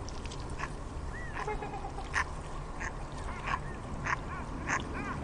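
Waterfowl calling: a string of short, pitched calls, about two a second, over a steady low background noise.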